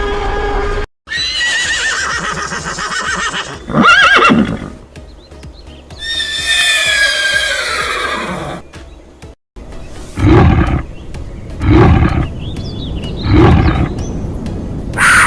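Horse neighing in several separate recordings joined by short cuts: long whinnies that fall in pitch, with a loud short call between them. Near the end come four short loud calls about a second and a half apart.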